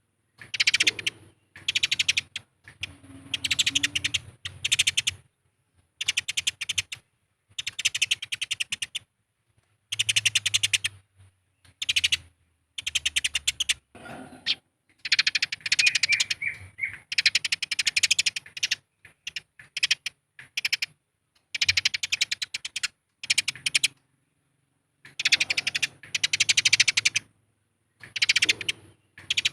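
Eurasian tree sparrows in a fight, chattering in rapid harsh bursts. The bouts last one to two seconds each, with short silent gaps between them.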